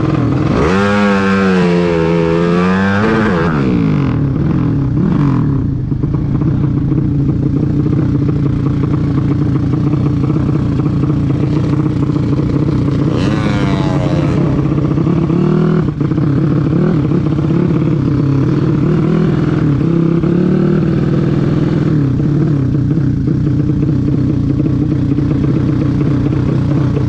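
A vehicle engine running steadily at low revs. Its note briefly bends up and down near the start and rises again about halfway through.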